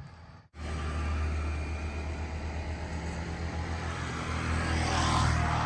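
A motor running with a steady low hum, cutting in abruptly after a brief silence and growing a little louder near the end.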